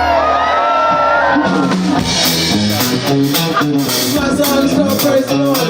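Rock band music: bass and electric guitar with a gliding sung or guitar melody, and the drums coming in with a steady beat about two seconds in.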